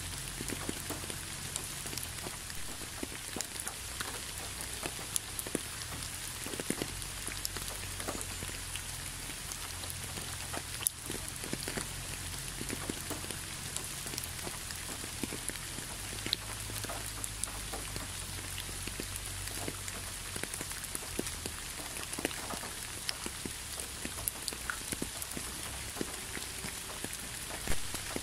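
Gentle steady rain falling onto a leafy road, a soft even hiss dotted with the sharp ticks of single drops, with a low rumble underneath.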